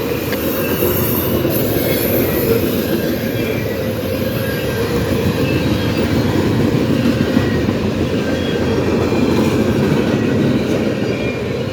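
Freight cars of a CSX mixed freight train rolling past: a steady rumble of wheels on rail, with faint brief wheel squeals.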